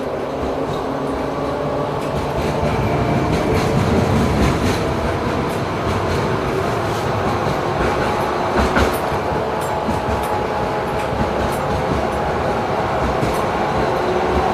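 LM-99K tram running along the track over a steady rumble, its wheels knocking over rail joints several times, most sharply a few seconds in and again about halfway through.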